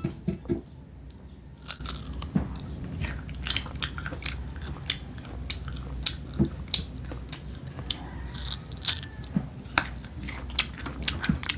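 Crisp, crunchy bites and chewing of unripe green mango close to the microphone, with sharp crunches coming irregularly from about two seconds in.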